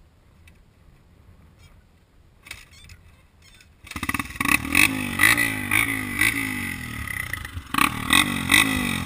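A few faint clicks, then, about four seconds in, a dirt bike engine comes in suddenly and loudly, revving up and down in quick rising sweeps about twice a second.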